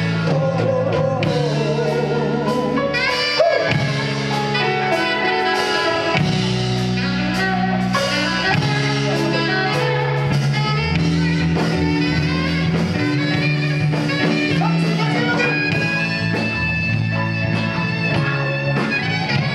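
Live band music: a bass line moving under pitched melody lines, with a steady drum beat.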